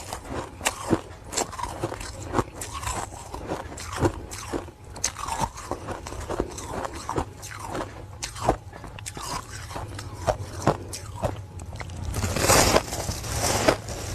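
Ice being bitten and chewed close to the microphone: a run of sharp, irregular crunches and cracks, growing into a denser, louder stretch of crunching near the end.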